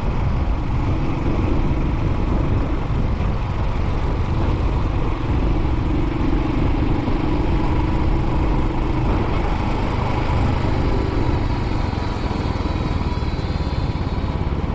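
Royal Enfield Classic 500's single-cylinder engine running steadily while the motorcycle is ridden along the road, with a steady rush of wind noise.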